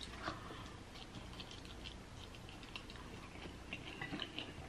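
A fried chicken drumstick being bitten into and chewed close to the microphone: a sharp bite right at the start, then faint chewing with small scattered clicks and crackles.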